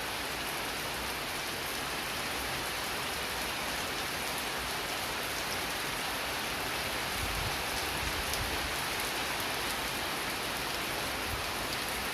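Heavy rain falling steadily, an even hiss of drops hitting the ground.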